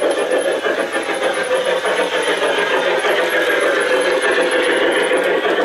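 G-scale model train running on the garden track: steady electric motor and gear whine with the wheels running on the rails, the pitch sliding a little as the speed changes.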